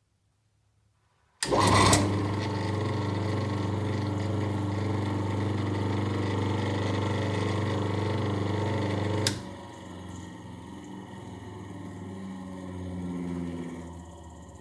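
Table saw's electric motor switched on about a second and a half in and running with a steady hum, then switched off with a click about nine seconds in and coasting down.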